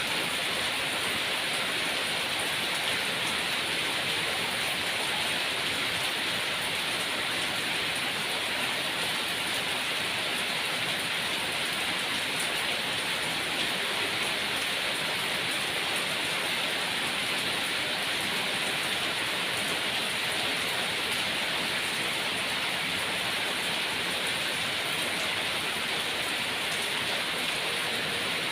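Steady rainfall, an even hiss of rain with faint individual drop ticks.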